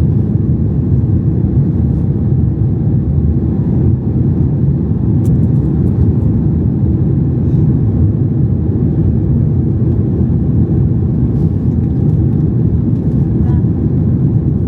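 Steady low rumble of engine and cabin noise heard from inside a Boeing 737 MAX 8 passenger cabin, with its CFM LEAP-1B turbofans running.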